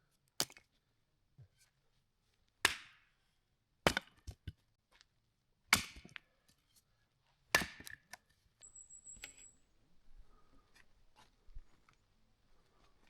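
Dry wood being chopped: five sharp blows about every one and a half to two seconds, some followed by lighter knocks, then quieter handling noise near the end.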